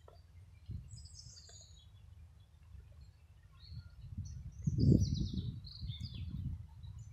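Small birds chirping in quick high notes, a short run about a second in and a longer run from about four to six seconds in, over a low rumble on the microphone that swells loudest about five seconds in.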